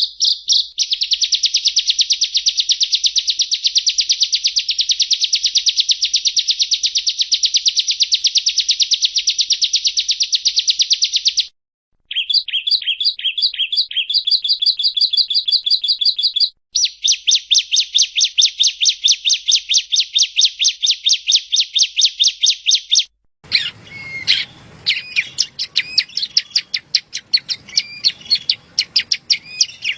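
Yellow-bellied prinia singing: fast, buzzy trills of rapidly repeated high notes in long runs, broken by brief gaps. Near the end the trill turns into more spaced chirps over a background hiss.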